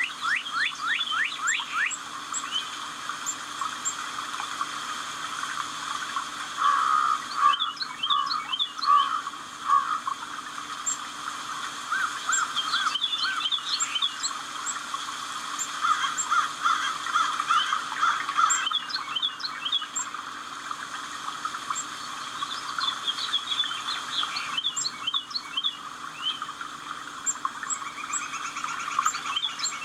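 Several songbirds chirping and singing together: fast sweeping whistled notes, then repeated quick high chirps and trills. The sound drops out abruptly for a moment a few times, as at edits in a recording.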